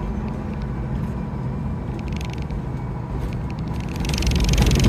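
Steady low engine and road rumble inside the cab of a 2012 Freightliner Cascadia semi truck under way, with a few faint clicks about two seconds in and a louder rattling hiss near the end.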